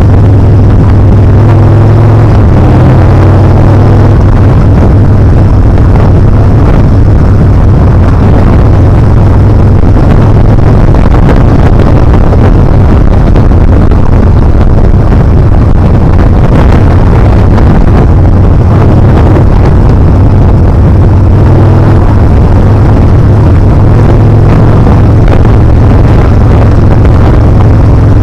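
Yamaha Bolt R-spec's air-cooled V-twin engine running steadily under way, with loud wind rush over the action camera's microphone.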